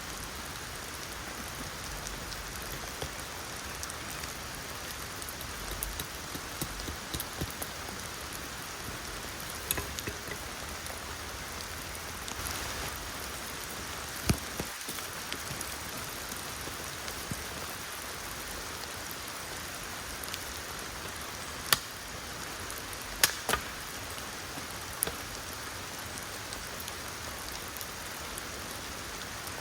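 Steady rain falling, with a few sharp knocks or taps scattered through it, the loudest a quick pair about two-thirds of the way in.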